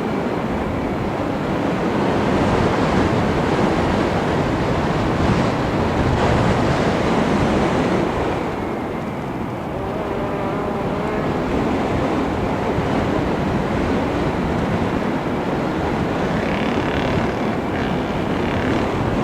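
FPV model aircraft in flight: a steady rush of wind over the onboard microphone, with the motor and propeller drone underneath. It dips briefly about halfway through.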